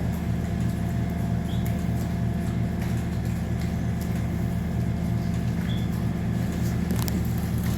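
Steady low drone of farm machinery running, with a few faint clicks near the end.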